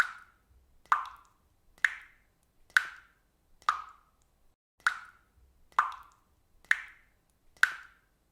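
Water dripping steadily, about one drop a second, each drop landing with a short plop.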